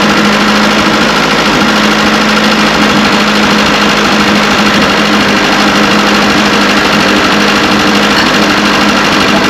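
Carburetted petrol engine with points ignition running steadily, a loud, even note with no change in speed.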